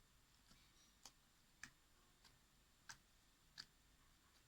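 Near silence with five faint sharp clicks, spaced unevenly a little over half a second apart.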